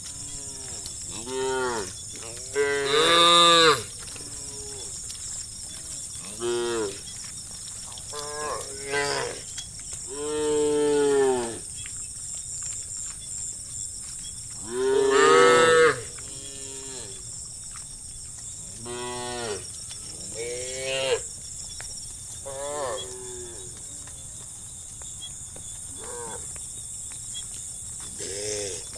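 Herd of cattle mooing: a dozen or so separate moos from different cows, each half a second to two seconds long, some near and loud, others fainter. The loudest come about three seconds in and again about fifteen seconds in.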